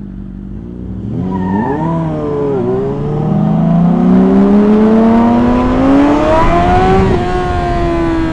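Sport motorcycle engine idling, then revved once and pulled hard, its pitch rising steadily for several seconds before dropping at a gear change about seven seconds in.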